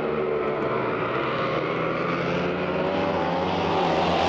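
Drag boat racing engine running with a steady, deep, pitched drone whose note drifts slightly, swelling louder near the end.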